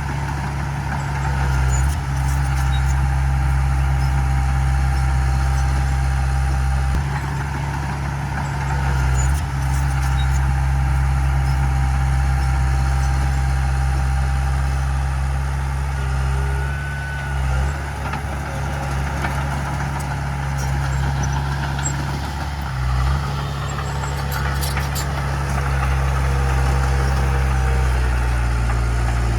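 Heavy diesel earthmoving machinery running steadily, its deep engine drone rising and falling slightly, with a few short metallic clanks.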